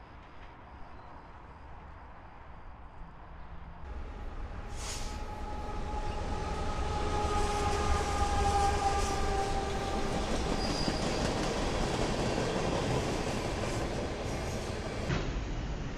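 Freight train cars rolling past: a low rumble at first, then, after a cut about four seconds in, a louder passing string of well cars and tank cars whose steel wheels squeal in several steady high tones over the rumble.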